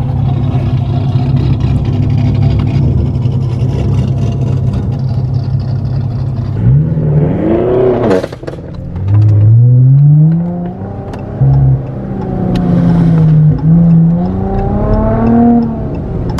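Car engine droning at a steady cruise, then revving hard in several rising sweeps, each cut off and started again, as the car accelerates through the gears.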